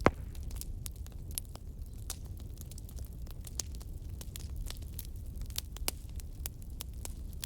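Fireplace fire crackling: irregular sharp pops over a steady low rumble of the flames, with one loud pop right at the start.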